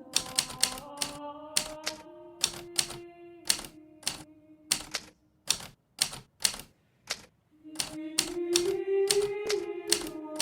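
Hermes Baby portable typewriter being typed on: sharp, uneven key strikes about two to three a second, steady typing with brief pauses. Soft background music sounds under the keys and fades out for a while midway.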